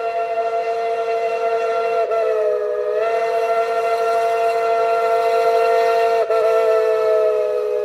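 Steam locomotive whistle blown in one long continuous blast, several notes sounding together as a chord. The pitch sags briefly about two seconds in, and the sound dips for a moment again near the end.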